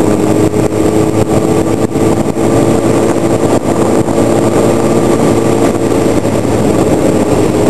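Sportbike engine running at a steady cruising speed under a loud rush of wind noise on the microphone, the engine note holding an even pitch.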